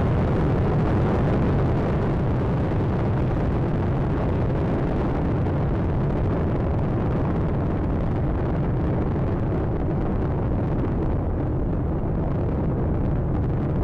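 Space Shuttle Atlantis's rocket engines during ascent: a steady, crackling rumbling roar, heaviest in the low range, its high end slowly fading in the second half.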